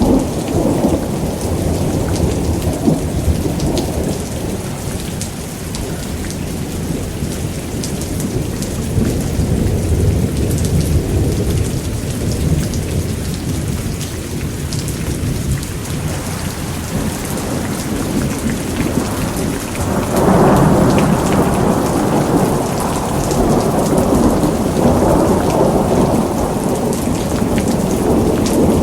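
Thunderstorm: steady heavy rain with rolling thunder rumbling underneath. The thunder swells and fades, and a louder roll builds about two-thirds of the way through.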